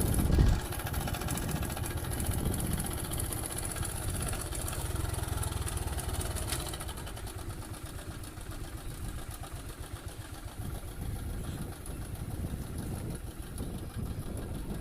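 Motorcycle engine running steadily at low speed, a low even rumble.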